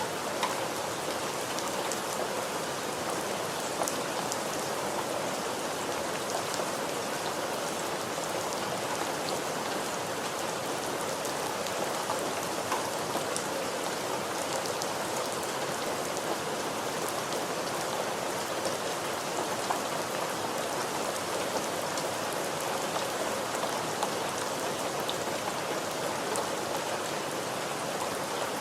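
Steady rain falling on a surface, a constant hiss with scattered distinct drop ticks.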